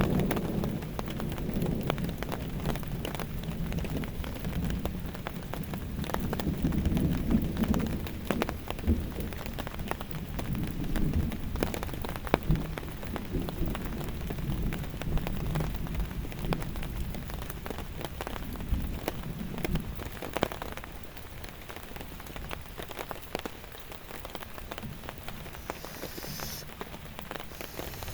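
Steady rain falling, with drops tapping on a nearby surface. A low rumble of thunder in the first half fades away.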